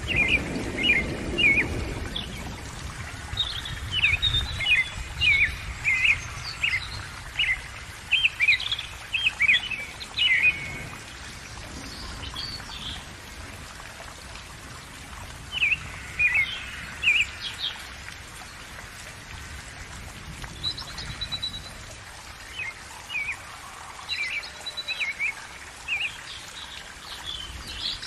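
Small birds chirping in quick runs of short, sliding calls, with pauses between the runs, over a steady hiss.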